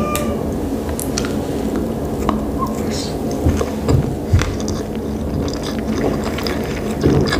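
Close-miked chewing of a sushi roll: small wet mouth clicks and squishes scattered through, over a steady low hum.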